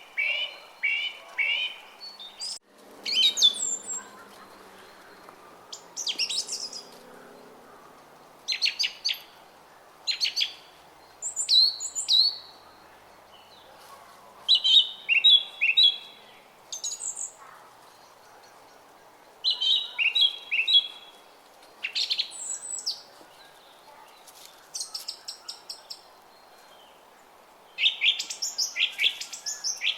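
Songbirds singing in short chirping phrases every few seconds, over the faint steady babble of a brook.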